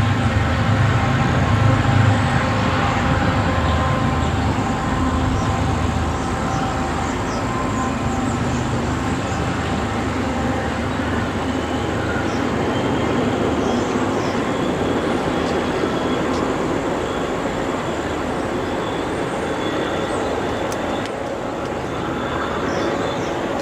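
Commuter train running past on the rails: a steady rumble and rail noise with a few held tones. The deep engine rumble is strongest over the first couple of seconds and then eases.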